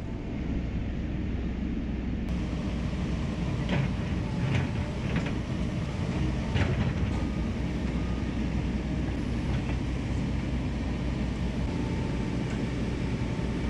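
Hydraulic excavator's diesel engine running steadily as the machine works, with a handful of sharp metallic knocks a few seconds in.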